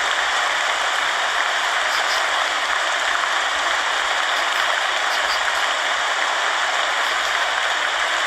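Steady rain falling, an even hiss with faint ticks of single drops.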